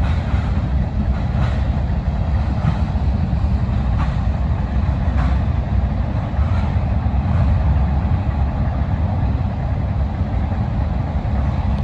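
Long CSX mixed freight train's cars rolling past on the rails: a loud, steady rumble with faint clicks at a regular beat, about one every second and a quarter.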